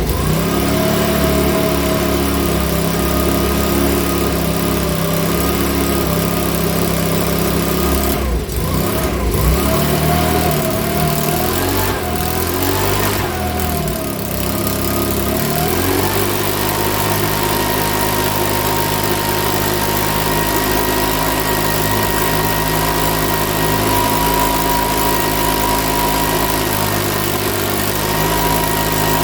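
Makita BHX2500 leaf blower's small four-stroke engine running, its speed wavering and hunting for several seconds in the middle before settling back to a steady run. The mechanic reckons it needs a new carburettor.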